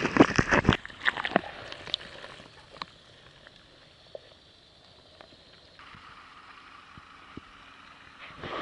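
Water splashing and sloshing against a kayak. It is loud in the first second, then drops to scattered drips and small splashes over quieter lapping, and loud splashing returns near the end.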